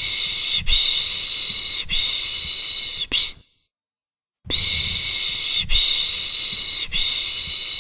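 A person shushing a baby, a long 'shhh' (Turkish 'piş piş') repeated in a steady rhythm: three shushes of about a second each, a silent pause of about a second, then three more. It is the soothing shush used to calm a baby to sleep.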